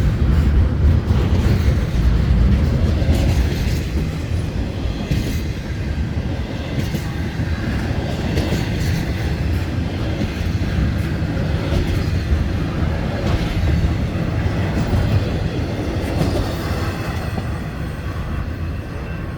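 A train rolling past at steady speed, with a continuous low rumble and scattered clicks from the wheels over the rails, easing slightly toward the end.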